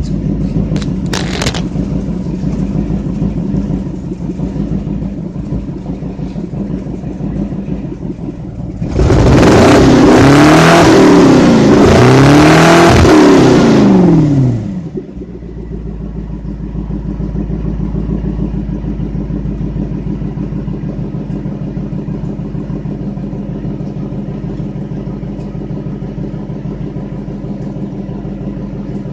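Lexus SC400's 4.0-litre V8 exhaust idling, revved twice in quick succession about nine seconds in, the pitch climbing and falling each time, then dropping back to a steady idle. The engine has a misfire.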